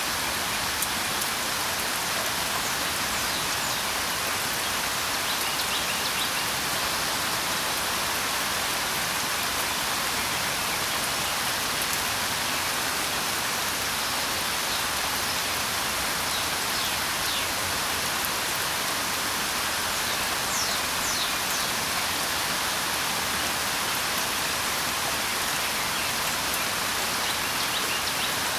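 Steady rain falling, a constant hiss of drops, with a few faint bird chirps now and then.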